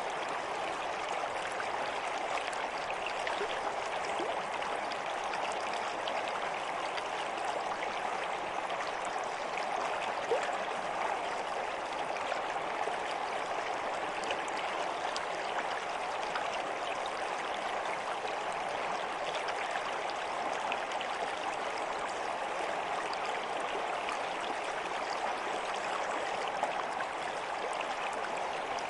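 Water running steadily in a stream, a continuous even rush with small trickling ticks and splashes.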